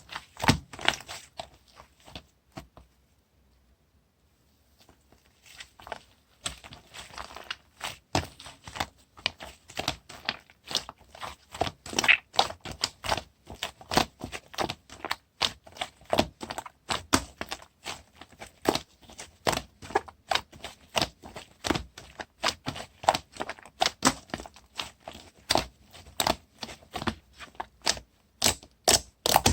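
Clay-mixed macaron slime being pressed and squished by hand, making quick sticky clicks and pops several times a second, with a short pause a few seconds in.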